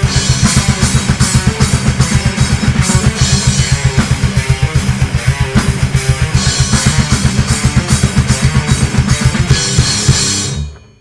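Death metal instrumental with distorted guitar and a fast, even kick-drum pulse under bright cymbal crashes every few seconds. The track stops abruptly about ten and a half seconds in and dies away within half a second.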